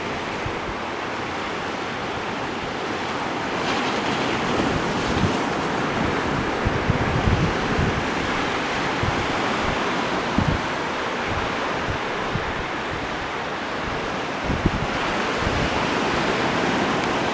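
Ocean surf washing in steadily, with wind buffeting the microphone in short low rumbles.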